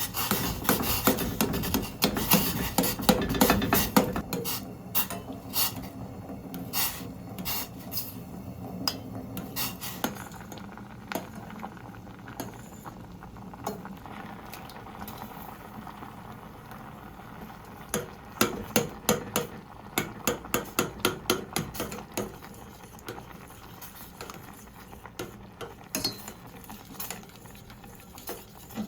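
Kitchen utensils clinking, knocking and scraping against dishes and pots, with a run of quick regular taps, about two or three a second, a little past halfway.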